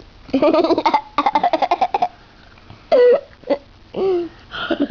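A young child giggling and babbling without clear words, in quick choppy bursts for about two seconds, then two short vocal sounds.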